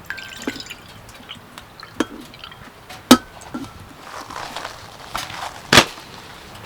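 Hard objects being handled and knocked together: a string of sharp knocks and clinks, some leaving a short ringing tone, the loudest about three seconds in and again near the end.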